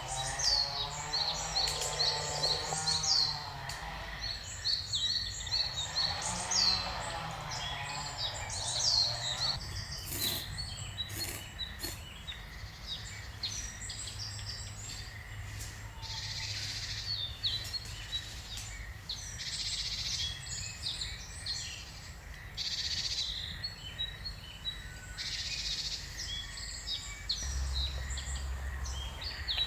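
Forest birdsong: several birds chirping and singing in quick, repeated high phrases, over a steady low hum.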